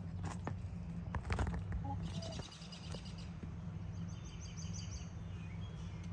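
A bird chirping in quick high trills, twice, after a few sharp knocks in the first second or so, over a steady low hum.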